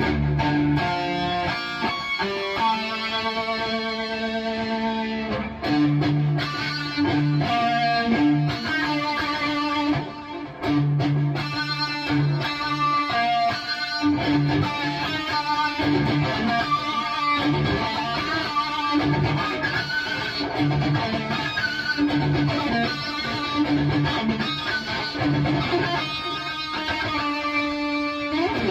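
High-gain distorted electric guitar through a Bogner Uberschall preamp, playing a heavy metal riff: rhythmic low palm-muted chugs under held, ringing notes.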